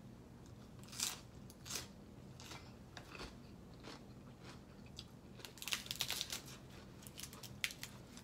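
A person chewing and crunching crisp food close to the microphone: scattered short crunches, busiest about six seconds in.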